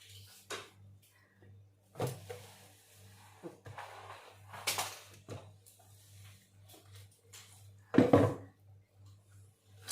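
Household handling sounds: scattered light knocks and taps, with one louder thump about eight seconds in, over a faint steady hum.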